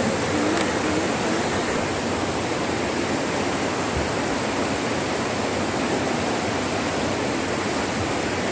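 Waterfall water rushing steadily, the falls running high and with great force.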